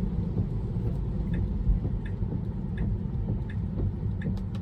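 Steady low rumble of a Tesla's cabin and road noise, with the turn signal ticking in an even rhythm, about two ticks a second.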